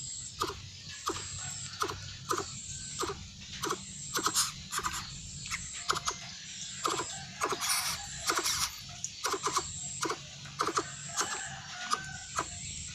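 Coucal making an irregular series of short, sharp clicks, about one or two a second, with a few brief higher notes among them. A faint high insect trill runs behind, coming and going.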